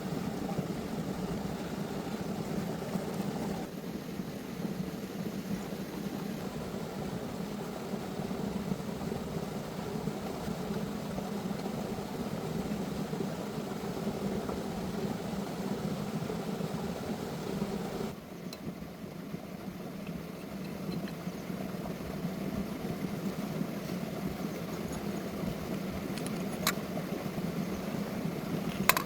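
An engine running steadily at idle, its level dipping briefly about eighteen seconds in, with two sharp clicks near the end.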